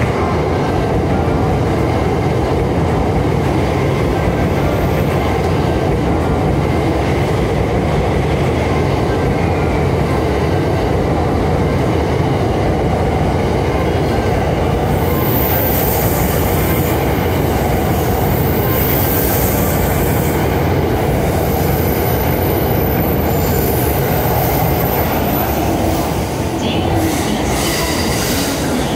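A 285 series 'Sunrise' sleeper express electric train running past at close range, a steady rumble of wheels on rail. A thin high squeal joins in from about halfway through until near the end.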